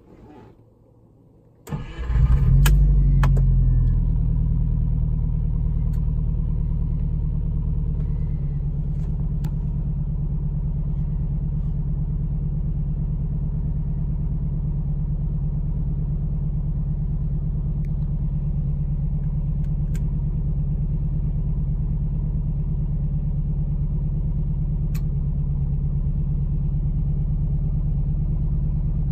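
JDM-swapped Subaru flat-four engine in a 1998 Impreza cranking briefly and starting about two seconds in, flaring up, then settling into a steady idle.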